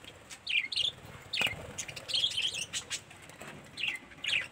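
A flock of caged budgerigars chirping, short high chirps that fall in pitch, several each second from different birds.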